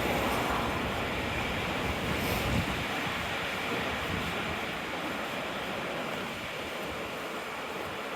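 Rough high-tide sea breaking against the seafront: a steady rush of surf. Wind rumbles on the microphone during the first couple of seconds.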